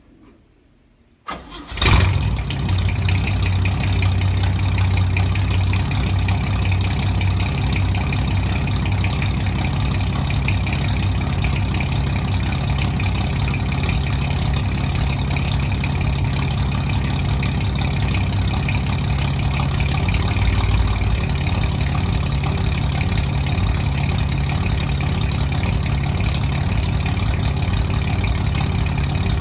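A 1956 Chevy 235 cubic-inch inline six with split headers and dual straight 2-inch pipes and no mufflers starts about a second and a half in, catching almost at once, then idles steadily and loudly.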